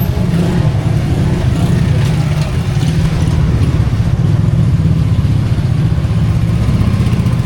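A motor vehicle's engine running close by, steady throughout.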